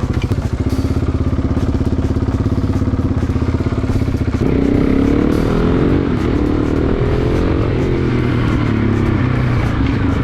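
Sport motorcycle engine running at low revs with an even pulsing beat, then about four seconds in it accelerates, its pitch climbing, dropping and climbing again through the gear changes.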